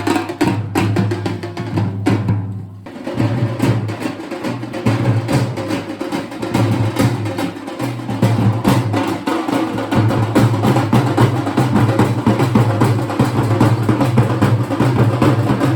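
Loud, fast drumming of a Ganesh immersion procession, many rapid strikes over a low steady drone that drops out briefly about two seconds in.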